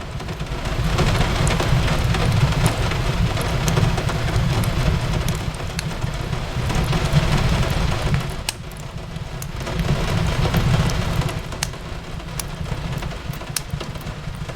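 Steady rain on a window mixed with a crackling fireplace: a continuous hiss of rain over a deep low rumble that swells and eases every few seconds, with scattered sharp crackles and pops from the burning wood.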